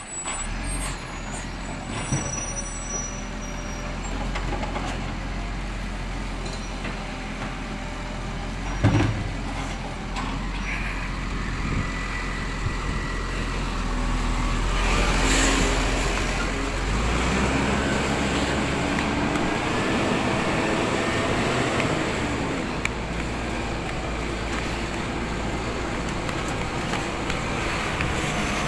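Refuse collection truck's diesel engine running steadily, with one loud clunk about nine seconds in. The engine swells louder around the middle, with a brief hiss.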